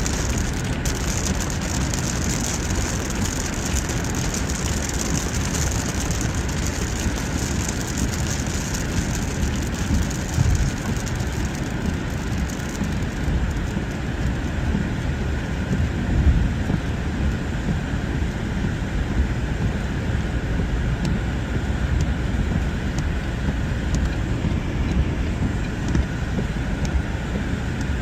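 A car driving on a wet freeway in rain: steady tyre and road rumble with the hiss of rain and spray. The hiss is stronger through the first half. Two brief louder surges of noise come about a third and about halfway through.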